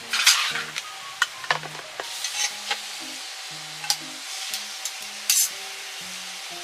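Crackling and sizzling with many sharp ticks and a few louder snaps, over soft background music.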